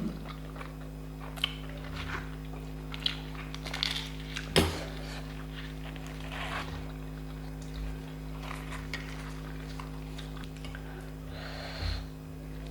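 Close-up eating sounds: scattered wet clicks and smacks of chewing and of eating poori and chickpea curry by hand, with a sharp knock on the plate about four and a half seconds in, over a steady low hum.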